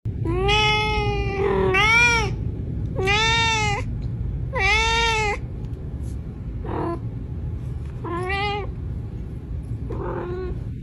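A domestic cat meowing repeatedly: about seven drawn-out meows, four loud ones close together in the first half, then quieter, more spaced ones, over a steady low rumble.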